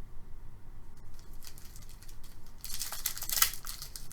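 Trading card pack wrapper being torn open and crinkled, starting about two-thirds of the way in, after a single click about a second in.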